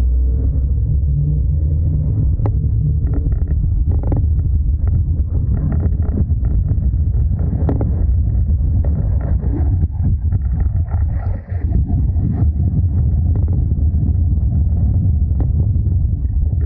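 Suzuki Every DA64V 4WD van on the move with a loud, steady low drone from the suspension, the droning 'go-go' noise being tracked down, with scattered light clicks over it.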